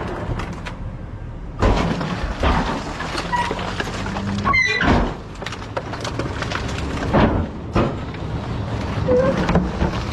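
Garbage truck engine running with a low hum, under repeated knocks and clatter.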